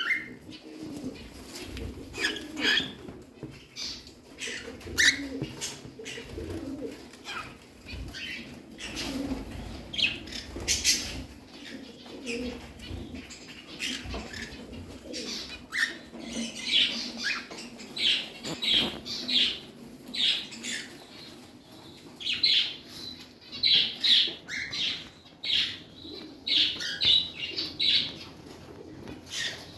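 Pet birds chirping in repeated short bursts, busier in the second half, over a low cooing murmur, with wing flutters in between.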